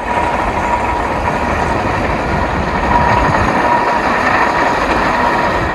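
Heavy vehicle engine running steadily: a loud, even noise with a faint steady whine in it, starting and cutting off suddenly.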